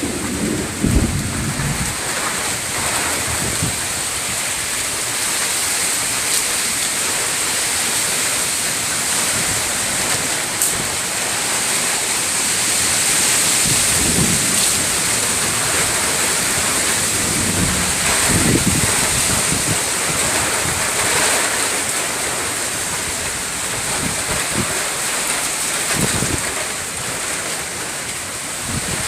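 Thunderstorm setting in: wind and rain make a steady loud hiss, broken by several short low rumbles.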